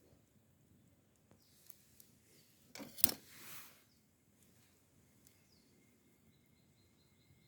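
A single sharp knock or crack about three seconds in, within about a second of hissing noise, over faint outdoor background; a faint steady high tone comes in near the end.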